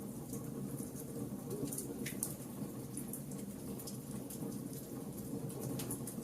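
Wood fire burning: irregular sharp crackles and pops from the burning wood over a steady low rush of flames.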